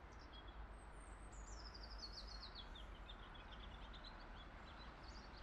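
A small songbird singing one fast phrase that falls in pitch and ends in a run of quick repeated notes, faint over a low background rumble.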